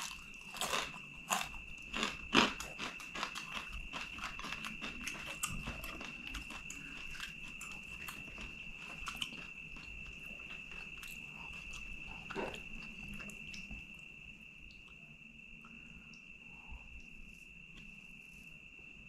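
Crisp crunching and chewing of a fried papadam, dense crackles in the first few seconds thinning to softer, sparser chewing sounds. A steady high-pitched tone runs underneath.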